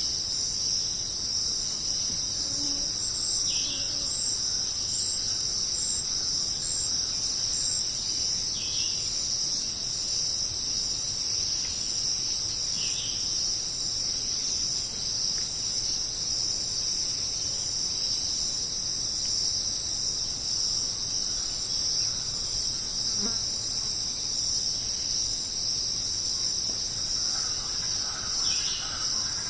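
Dense, steady chorus of jungle insects, a continuous high-pitched shrilling, with a few brief falling chirps from some other animal every few seconds.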